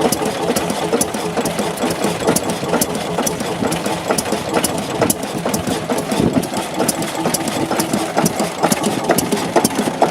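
Diesel engine running steadily, with a quick, regular knock.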